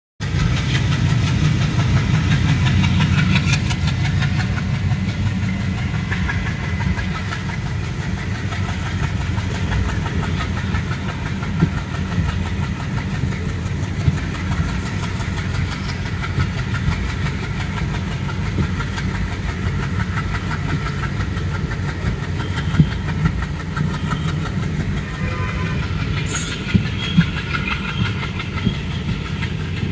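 Express train pulling away and running slowly: a steady low rumble with a few sharp, widely spaced clicks of wheels over rail joints.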